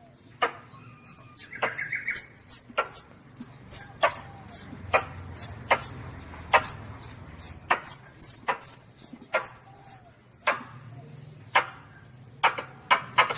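Young Asian palm civet (luwak kitten) squeaking over and over: short, high, falling squeaks about two a second, with sharp clicks scattered among them.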